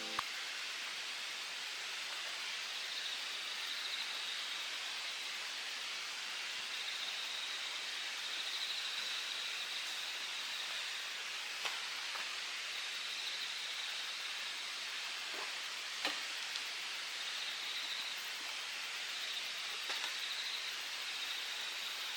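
Steady rushing of a mountain stream, with insects trilling high-pitched in short bouts that repeat every second or two. A few faint clicks stand out.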